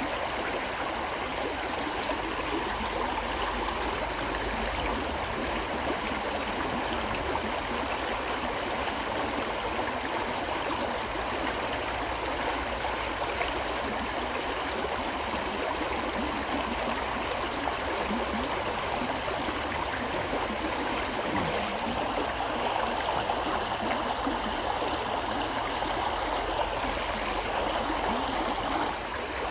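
A river flowing steadily, with a dense rushing and gurgling of water over stones.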